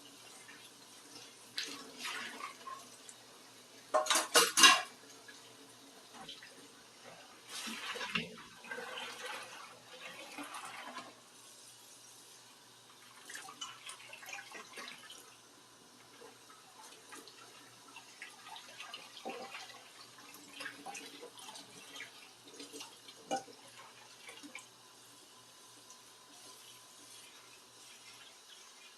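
Dishes being washed by hand at a sink: plates and cutlery clinking and clattering, with a burst of loud clatter about four seconds in, and the tap running in short spells.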